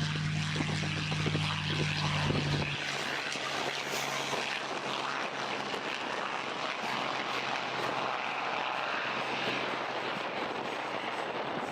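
Piston-engined propeller warbirds flying by, their engines and propellers making a steady rushing drone. A low steady hum in the first few seconds stops abruptly.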